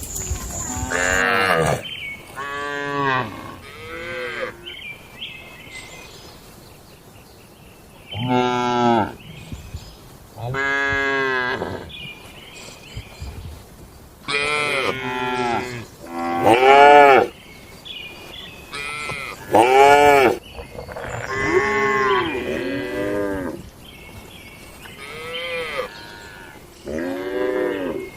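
Cattle mooing again and again: about a dozen calls, each about a second long and arching up then down in pitch, some overlapping one another, with a lull of a few seconds early on.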